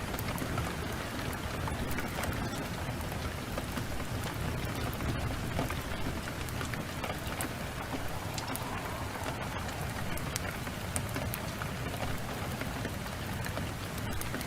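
Steady heavy rain, mixed with small scattered crackles from a burning wood fire.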